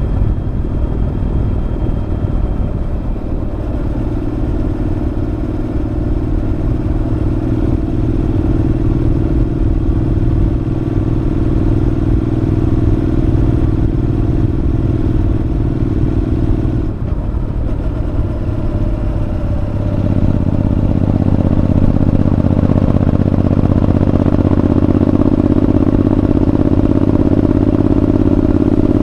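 Honda NC750X parallel-twin engine running through an aftermarket Moriwaki muffler under way, its exhaust note steady. The note cuts off briefly about seventeen seconds in, then comes back louder from about twenty seconds on.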